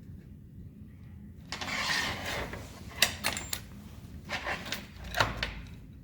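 Workbench handling sounds: a brief scraping rustle about a second and a half in, then a run of sharp clicks and knocks as small parts or tools are handled.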